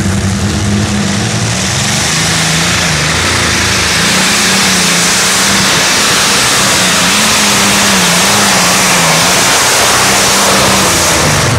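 Twin Allison V12 aircraft engines of a pulling tractor running at full power through a pull, loud and continuous, with the engine pitch wavering up and down as the load changes.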